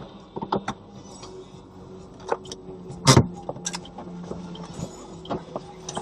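A car's steady low engine hum, with scattered sharp clicks and rattles and one louder knock about three seconds in.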